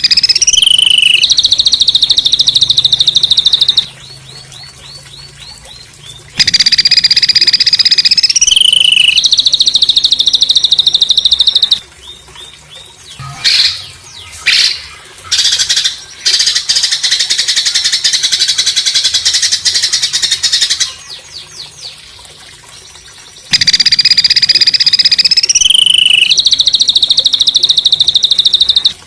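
Songbird calling harshly in long bursts of rapid, high-pitched buzzy trills lasting several seconds each, with short quieter gaps between. The same phrase comes back again and again, as in a looped training recording.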